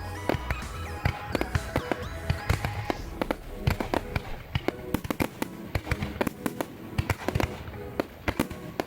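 Fireworks bursting and crackling in a rapid, dense salvo, several sharp bangs a second throughout, over background music.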